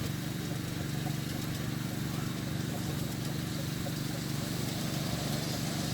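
A steady low engine drone running without a break, with indistinct voices mixed in.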